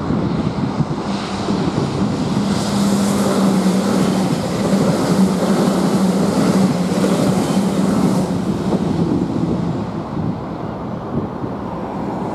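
A vehicle running: a continuous rushing noise with a steady low hum that comes in about a second in and fades after about nine seconds.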